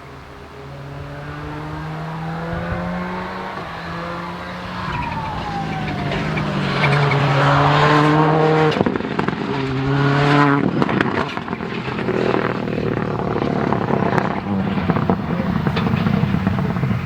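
A rally car's engine revving hard as it accelerates through the gears. The pitch climbs, then drops at each upshift, twice in quick succession near the middle, and the car grows louder as it comes closer.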